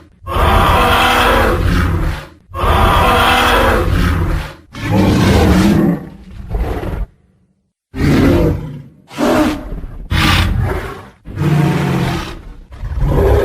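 Tyrannosaurus rex roar sound effects: a series of about eight loud, deep, rough roars, each one to two seconds long, with a gap of about a second in the middle.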